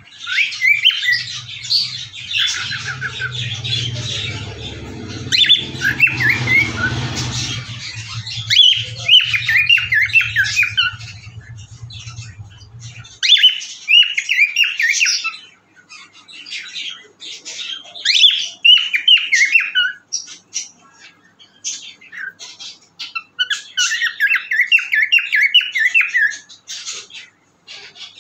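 Pet cockatiel calling in bouts of quick, short chirps and squawks, with brief pauses between the bouts.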